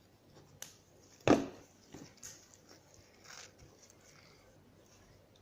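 Handling noises at a table, with one sharp thump a little over a second in and a few lighter knocks and rustles after it.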